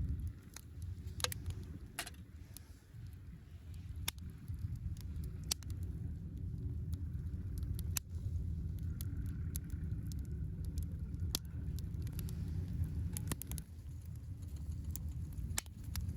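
Wood campfire crackling, with scattered sharp pops at uneven intervals over a steady low rumble.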